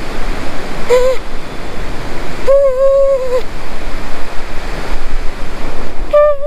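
A conch shell (shankha) blown three times: a short toot about a second in, then two longer steady blasts of about a second each, the last near the end. Sea waves wash steadily behind.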